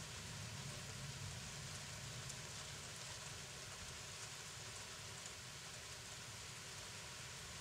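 Steady rain falling during a thunderstorm, with faint scattered drop ticks and no thunder clap.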